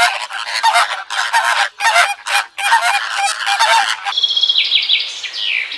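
Many birds giving loud, harsh calls over and over, overlapping one another. About four seconds in, the sound cuts to a few high chirps and falling whistled notes from a smaller bird.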